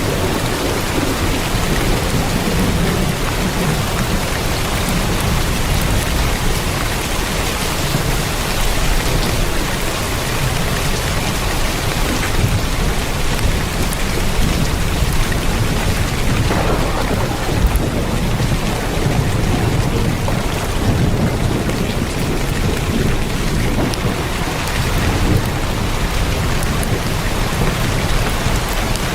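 Heavy rain drumming steadily on a tin roof, a dense unbroken hiss with a deep low rumble underneath.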